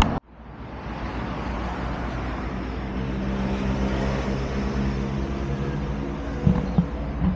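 A motor vehicle engine running steadily with a low hum, with a few short knocks near the end.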